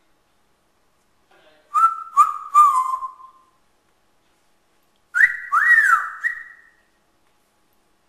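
African grey parrot whistling two short phrases of clear notes. The second phrase is higher and includes a note that swoops up and back down.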